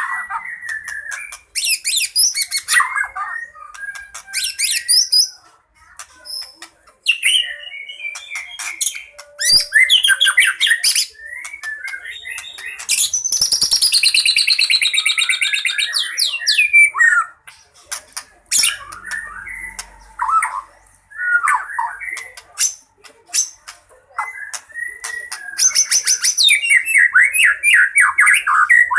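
White-rumped shama singing its loud, varied fighting song: rapid trills, sharp ticking notes and whistled glides, packed with mimicked phrases. A long harsh rattle comes near the middle.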